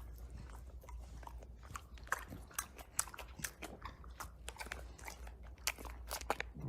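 Dog chewing on something hard: quiet, irregular crunches and clicks, over a faint low hum.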